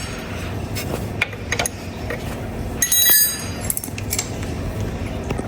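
Metal hand tools clinking and clicking, with a sharper ringing metallic clink about three seconds in, over a steady low hum.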